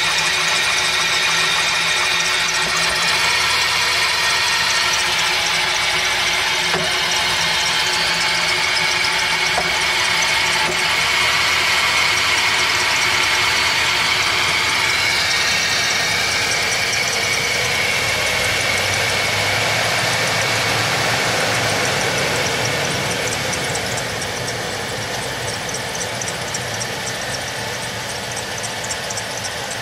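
Suburban's engine running with a rapid ticking or knocking noise, which the owner says it makes every time it is started. The engine gets quieter about 23 seconds in.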